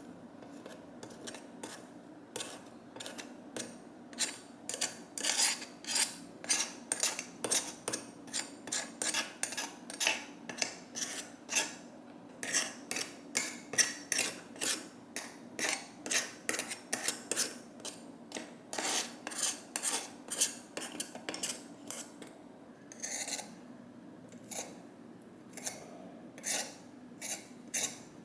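Repeated rasping strokes of a hand tool worked back and forth over a hard surface, about two a second, with a few short pauses.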